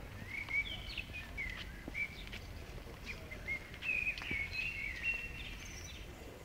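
Songbird chirping and twittering throughout, a run of short, high slurred whistles and chirps, over a low background rumble.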